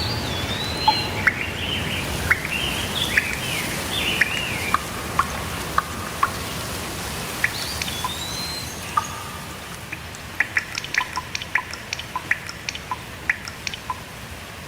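Steady rain hiss with songbirds calling over it: slurred whistles and a warbling phrase in the first few seconds, another whistle about halfway through, then a run of short sharp ticks near the end.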